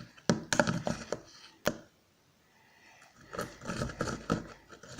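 Freshly mixed clear-glue slime being handled and squished, with a run of sharp wet clicks and crackles, a pause of about a second, then more crackling.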